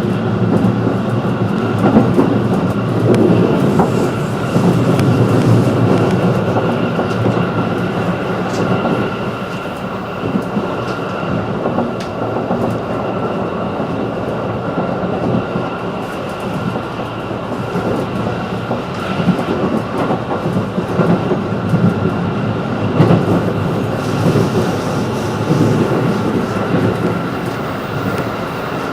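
Running noise inside a 211 series electric train carriage under way: a steady rumble of wheels on rail with a steady high whine over it.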